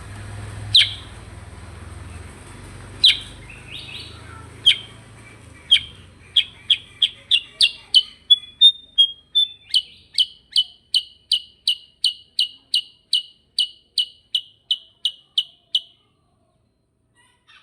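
A kutilang sutra, the songbird Indonesian keepers prize for its rolling song, chirping sharply. A few spaced notes come first, then it breaks into a fast, even run of about three chirps a second, the continuous "ngerol" song, which stops abruptly near the end. A low hum sits under the first few seconds.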